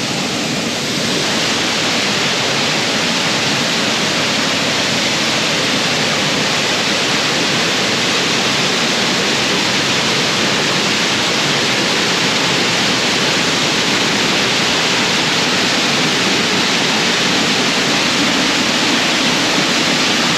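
Mae Sa Waterfall's falling water: a loud, steady rush that swells slightly over the first couple of seconds and then holds even.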